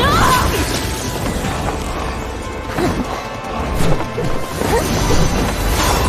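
Battle sound effects from an animated fight: crashing impacts over dramatic background music, with the loudest hit about four seconds in.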